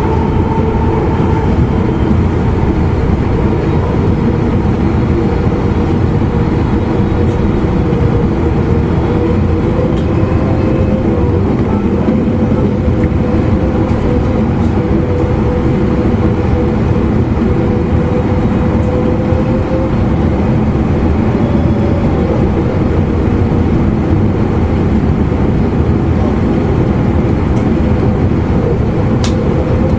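Running noise inside an E259 series Narita Express motor car at speed: a steady rumble of wheels on rail, with a faint hum from the traction motors running under it.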